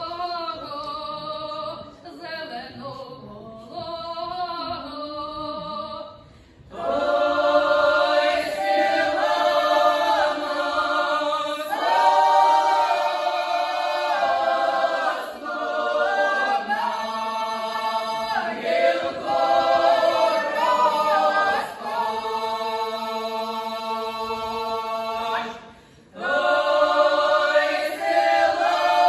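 Folk ensemble singing a cappella in several parts. The opening phrases are softer; then the full group comes in much louder about a quarter of the way through and holds long notes, with a short break near the end before the singing resumes.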